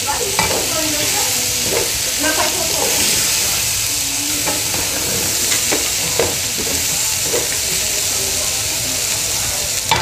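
Chopped sausage, bacon, onion and garlic frying in a large aluminium pot: a steady sizzle, with the occasional scrape and knock of a spoon stirring the pan.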